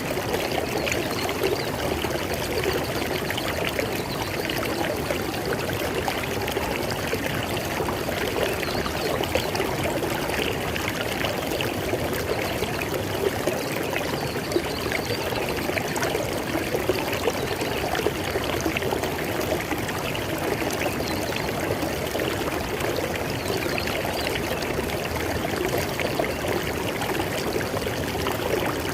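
River water flowing and splashing steadily, an even rushing with constant small trickling.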